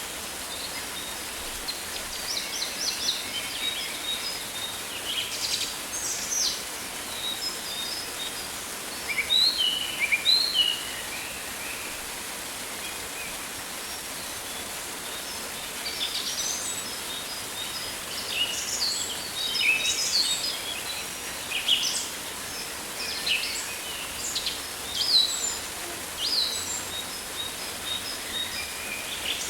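Rainforest birds calling over a steady hiss: a chorus of short chirps and quick downward-sliding whistles comes in clusters. There is a lull of about five seconds near the middle, when only the hiss remains.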